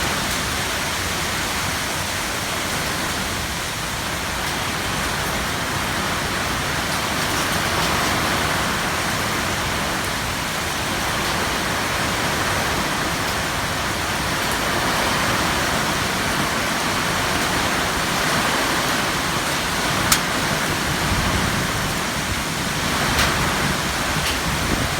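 Heavy rain falling steadily in strong wind. A sharp tap comes about twenty seconds in, and a lighter one a few seconds later.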